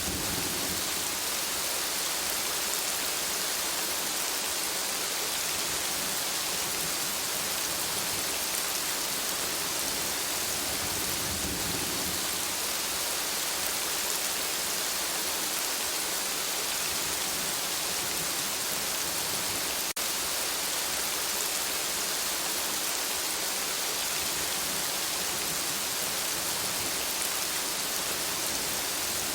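Gentle rain falling steadily, an even hiss of many drops on surfaces, with a momentary dropout about two-thirds of the way through.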